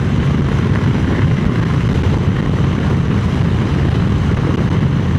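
Triumph Speed Twin 900 parallel-twin engine and exhaust running steadily while riding at an even pace, with a rush of wind noise over it.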